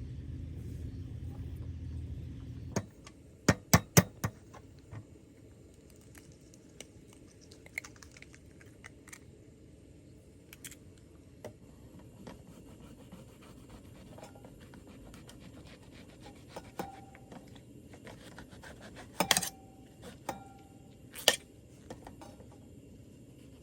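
Scattered sharp clicks and clinks of small hard objects being handled. A quick run of about five clicks comes a few seconds in, after a low hum stops. Three more clicks come near the end, two of them with a short ringing tone.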